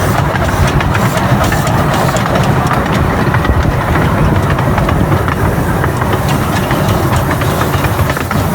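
Train running on rails: a steady rumble and rattle of wheels on track, with a light hiss and faint clicks over it.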